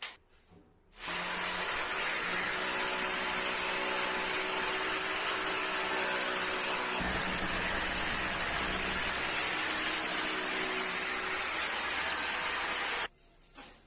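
A steady, loud mechanical hiss, like a machine or motor running, that switches on about a second in and cuts off suddenly near the end.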